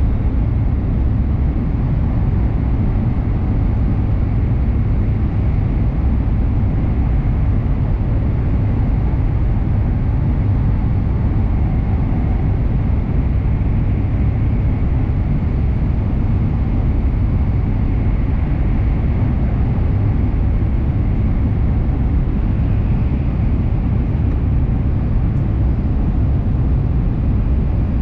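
N700S Shinkansen train running at speed through a tunnel, heard from inside the passenger car: a steady, loud low rumble with a faint high hum above it.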